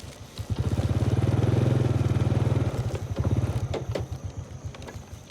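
A small engine chugging with an even, fast beat as it passes close by. It grows loud about half a second in and fades after about three seconds.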